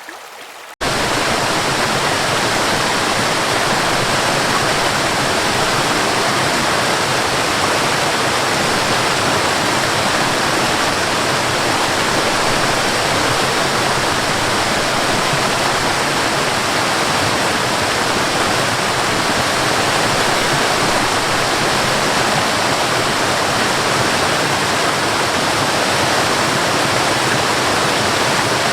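Waterfall: a steady, loud rush of falling water. Under a second in, a much quieter stream sound cuts abruptly to it.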